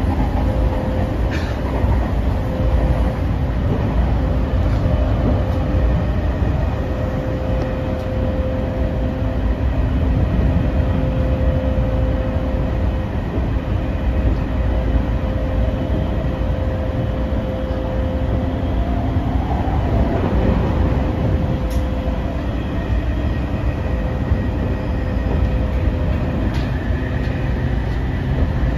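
JR East E231 series 0 electric commuter train running at speed, heard inside the passenger car: a steady rumble of wheels on rail under a held tone, with a few sharp clicks. Near the end a second, higher tone and a low hum join in.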